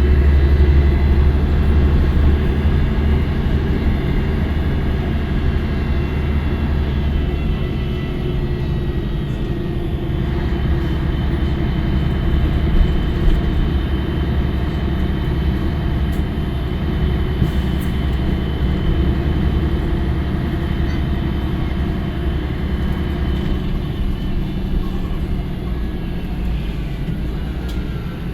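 Scania L113CRL bus's 11-litre six-cylinder diesel running under way: a steady low drone with a faint whine above it, loudest in the first few seconds and easing a little after that.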